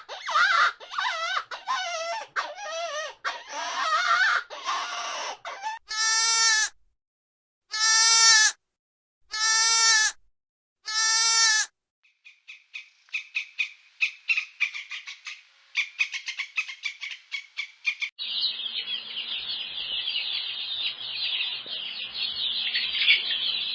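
A sequence of farm animal calls: wavering pitched calls, then four identical calls about two seconds apart, then rapid high chirping that turns into a dense chatter near the end.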